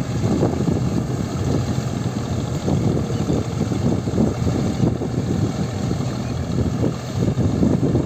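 Deutz-Fahr Agrolux 50 4WD tractor's diesel engine running steadily with a low rumble.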